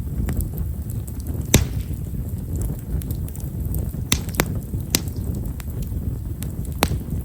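Wood fire of himeshara (tall stewartia) firewood crackling over a low steady burning rumble, with scattered sharp pops about half a second to two seconds apart. The loudest pop comes about one and a half seconds in, and a quick pair follows near the middle.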